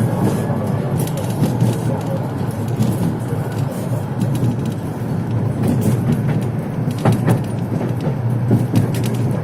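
Tram wheels rumbling and knocking over crooked, uneven rails, with scattered clicks and a sharper double knock about seven seconds in.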